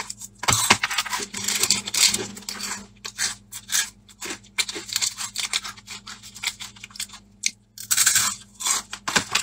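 Irregular crisp crunching and chewing of a dry, crunchy instant-noodle snack (gancui mian) bitten off the block.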